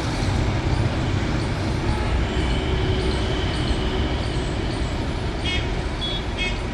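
Steady rumble of city road traffic heard from a high balcony.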